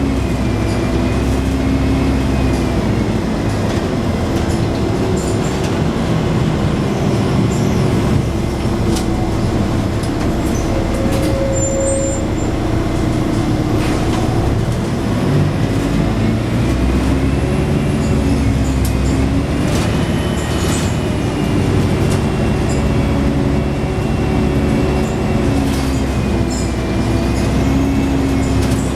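Scania N113 double-decker bus under way, heard from inside the cabin: the diesel engine's note rises and falls several times as the bus accelerates and changes gear, with a whine from the drivetrain gliding up and down with it.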